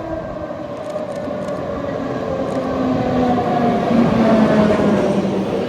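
Heritage tram running on its rails, with a rumble that grows louder and a motor whine in several tones that slowly falls in pitch.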